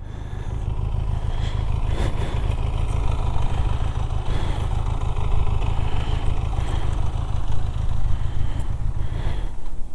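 Motorcycle engine running with a steady low rumble, which eases off near the end.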